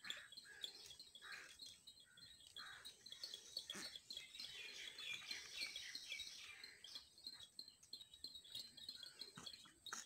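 Faint chirping of small birds: many short calls repeating rapidly.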